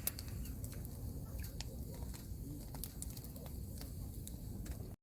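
Firewood fire crackling: irregular sharp pops and snaps over a low steady rumble.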